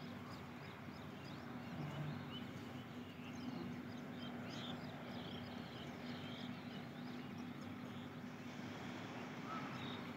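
Outdoor ambience: small birds chirping in quick, scattered calls over a steady low hum and background noise.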